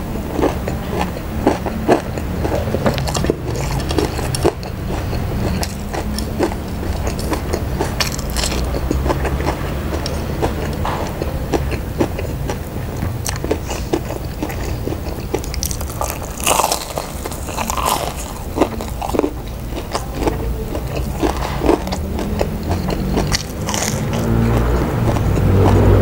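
Close-miked chewing of crispy fried tofu (tahu garing), its crunchy batter crackling in sharp bursts, with a fresh bite taken past the middle. A low rumble builds near the end.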